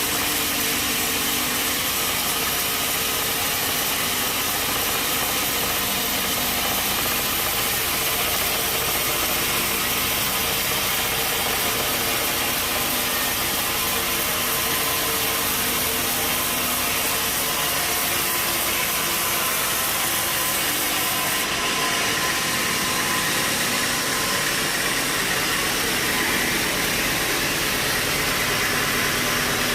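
Engine-driven sawmill machinery running steadily, a constant mechanical drone with noise.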